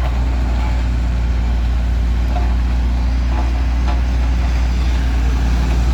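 Large diesel engine running steadily close by, a deep, even hum with no change in speed.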